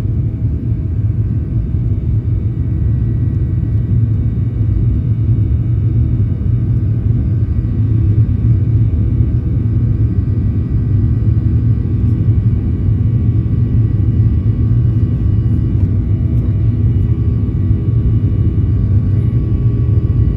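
Cabin noise inside a Boeing 737-800 with its CFM56 engines at high takeoff thrust: a loud, steady low rumble with faint steady tones above it.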